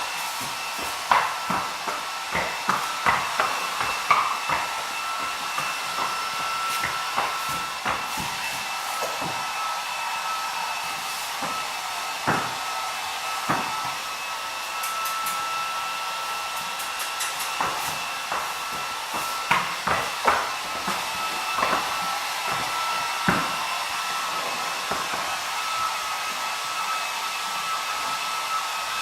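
Handheld electric hair dryer running steadily: an even rushing hiss with a constant high whine. Scattered sharp knocks and clicks come and go over it, thickest in the first few seconds and again about twenty seconds in.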